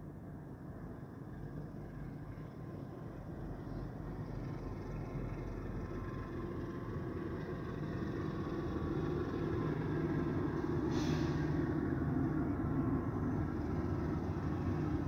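Train approaching and passing, a rumble that grows steadily louder, with a brief hiss about eleven seconds in.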